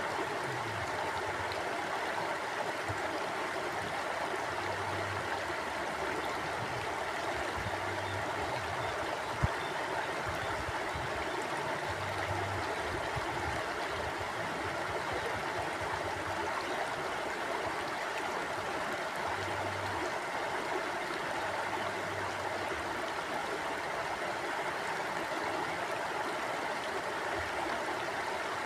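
Stream water flowing and gurgling over rocks, a steady rushing hiss. A single brief low thump stands out about a third of the way in.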